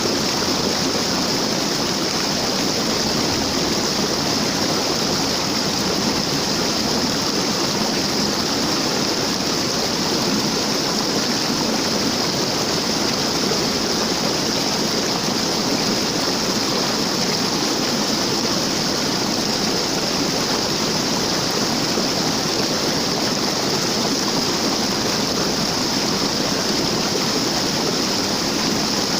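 Waterfall: falling water rushing in an even, unbroken roar that holds steady throughout.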